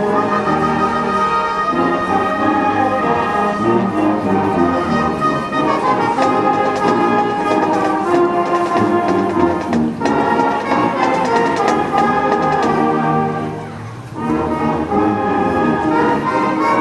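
A high school marching band playing, with the brass section carrying the melody and sharp percussion hits mixed in. The music eases off briefly about three-quarters of the way through, then swells again.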